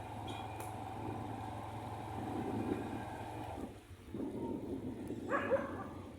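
A steady low mechanical hum and rumble that drops away briefly about four seconds in, then comes back, with a short pitched sound near the end.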